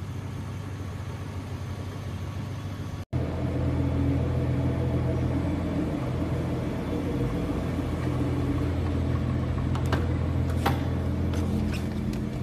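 Nissan GT-R R35's twin-turbo V6 idling with a steady low hum, which steps up in loudness at a cut about three seconds in.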